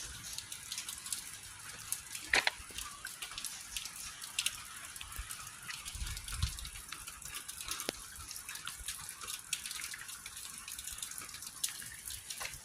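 Rain falling, with scattered drops ticking irregularly on nearby surfaces over a soft steady patter. A brief low rumble comes about six seconds in.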